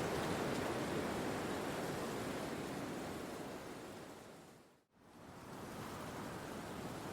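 Steady rushing of wind through forest trees, an even hiss with no bird calls. It fades down to a moment of silence about five seconds in and then fades back up, like the seam where a looped ambience track restarts.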